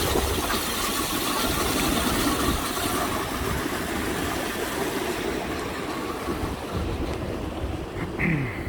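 Steady rushing hiss of geothermal steam vents and boiling springs, with wind rumbling on the microphone. The hiss softens about halfway through, and a short high sound comes near the end.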